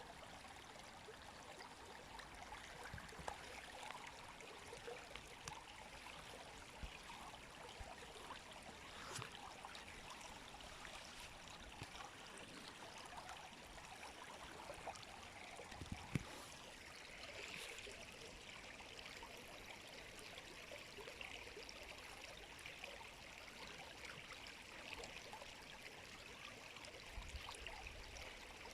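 A river flowing: a faint, steady rush of water with small splashes and trickles scattered through it.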